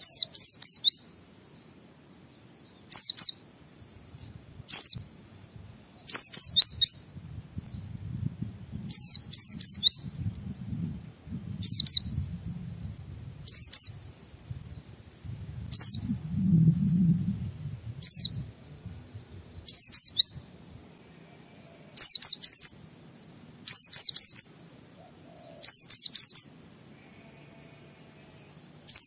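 Pleci (white-eye) singing: short, high-pitched chirping phrases of quick sweeping notes, repeated every second or two.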